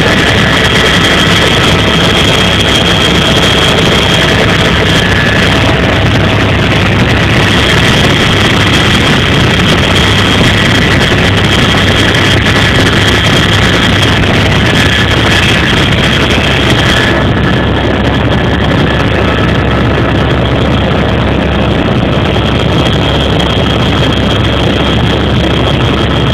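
Helicopter in flight: a steady, loud rotor and engine din with a high, even turbine whine over it. The top end of the noise dulls a little about two-thirds of the way through.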